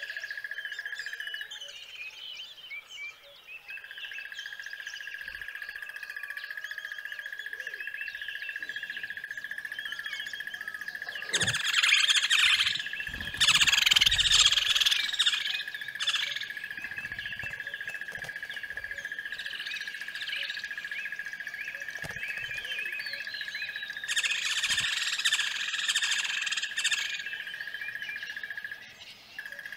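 Birds chirping and calling over a steady high-pitched drone, with two louder, busier bouts of chirping, the first about twelve seconds in and the second near the end.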